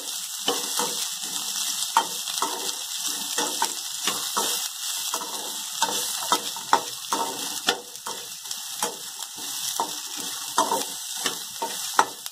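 Sliced onion, garlic, ginger and whole spices sizzling in hot oil in a stainless steel kadai, with a metal spatula repeatedly scraping and knocking against the pan as they are stirred and sautéed.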